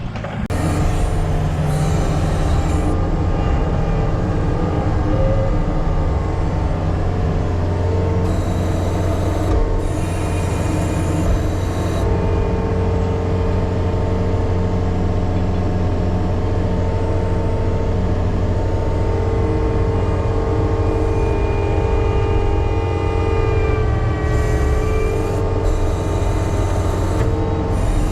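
John Deere 325G compact track loader's diesel engine running steadily under load while pushing and packing fill dirt, with a steady whine that bends in pitch toward the end.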